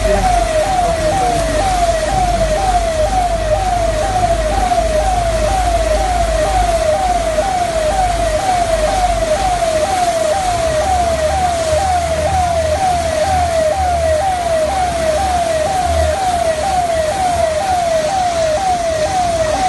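Electronic siren sounding without a break: a short rising whoop repeated about twice a second at an unchanging pitch, over a steady hiss and a low rumble.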